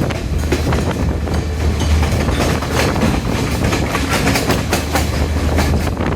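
Diesel multiple-unit express train running at speed: a steady low rumble with a rapid, uneven clatter of wheel clicks and knocks on the track.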